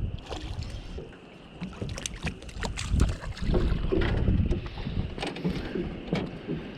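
Wind buffeting the microphone on a small boat, rumbling loudest about three to five seconds in, with scattered knocks and clicks from handling gear on board.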